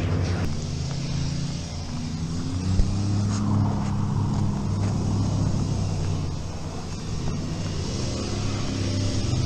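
Truck engine running close by with a steady low hum that shifts slightly in pitch, from a vehicle spinning donuts in the snow. A single short knock sounds about three seconds in.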